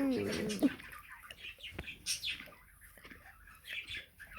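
Dog licking a person's face: scattered wet licking and smacking sounds, with a short pitched vocal sound in the first moment.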